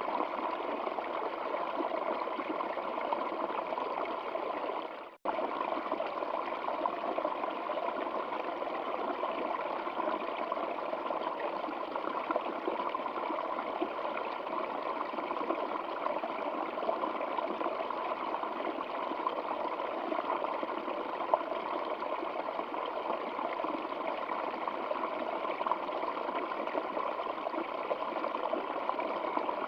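Stream water flowing and trickling in a steady, even rush. About five seconds in, the sound cuts out for a split second and then resumes.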